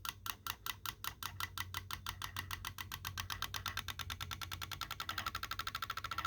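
A small object set going on a laptop, clicking and rattling in a regular rhythm that speeds up steadily from about four clicks a second into a continuous buzz, a sound likened to a motorcycle.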